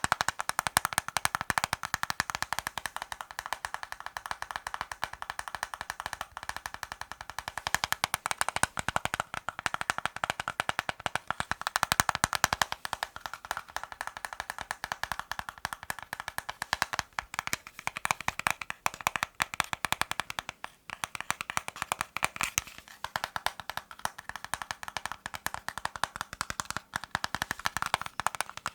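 Fast ASMR tapping on hard objects: a dense, continuous run of quick sharp taps, many per second.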